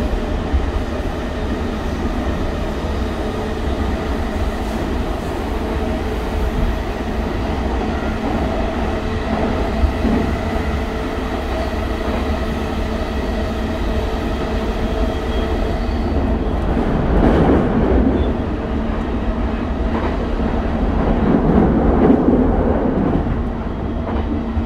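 Running noise inside a JR East E233-1000 series electric train's motor car at steady speed: a low rumble of wheels on rail with a faint steady whine from its Mitsubishi IGBT-VVVF traction equipment. The rail noise swells louder twice in the second half.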